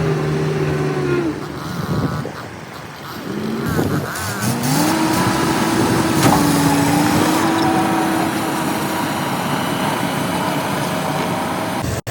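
Diesel engine of heavy earthmoving machinery running, easing off about two seconds in, then revving back up about four seconds in and holding a steady pitch.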